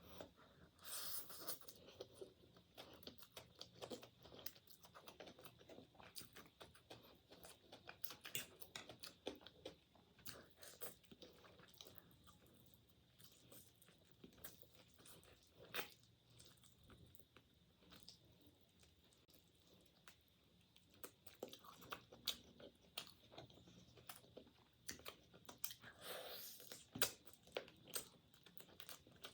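Close-up chewing and crunching of food, with many small sharp crackles and clicks.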